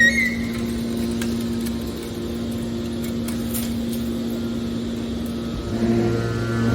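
Hydraulic metal baler running with a steady machine hum. Near the end it grows louder as a deeper hum joins in.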